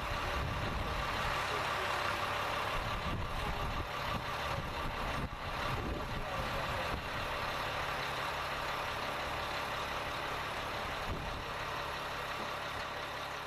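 Vehicle engines running steadily with a continuous low rumble.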